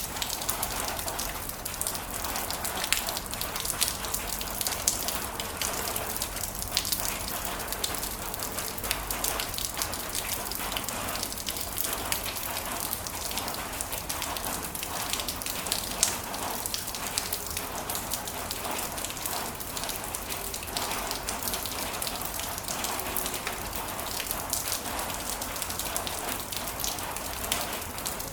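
Heavy rain falling steadily, a dense hiss of drops with many sharper individual drop impacts ticking through it.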